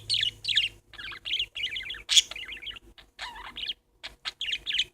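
Pet parakeets (budgerigars) chattering: a stream of quick, high, warbling chirps with short pauses between bursts.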